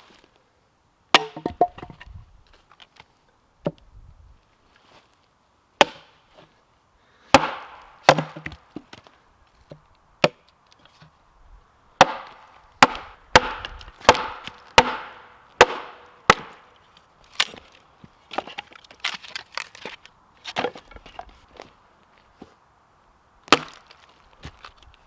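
Firewood being chopped and split: a long run of sharp wooden knocks at an uneven pace, several coming in quick succession partway through.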